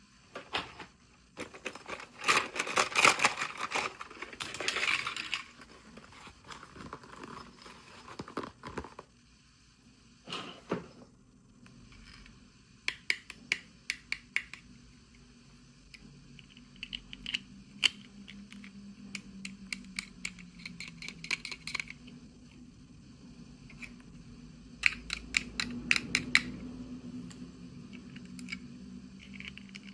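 Hands handling small plastic toys and their packaging: a spell of crinkling and rustling a couple of seconds in, then clusters of light clicks and taps.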